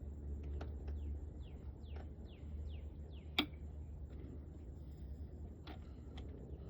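A small bird calling a quick run of short, falling chirps, several a second. A few sharp clicks cut in, the loudest about three and a half seconds in, over a low steady rumble.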